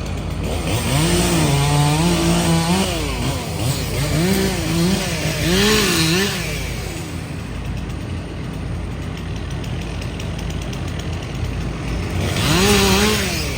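Chainsaw revving up and down in three bursts of throttle, the last one short near the end, over a steady low engine hum.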